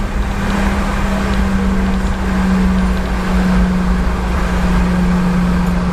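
Steady cabin drone of a Boeing 717-200 heard from a passenger seat: its rear-mounted Rolls-Royce BR715 turbofans and airflow give a constant low rumble with a steady hum running through it.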